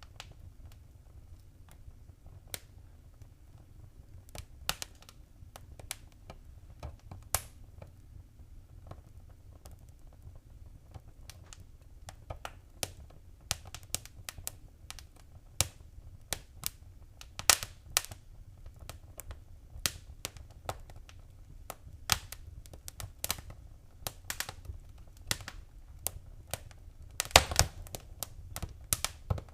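Wood fire crackling: irregular sharp pops and snaps over a low steady rumble, with a quick cluster of louder pops near the end.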